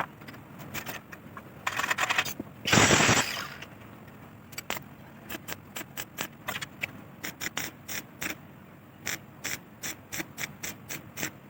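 Irregular mechanical clicks and ratchet-like ticking from bicycle repair work, with a short, louder burst of noise about three seconds in.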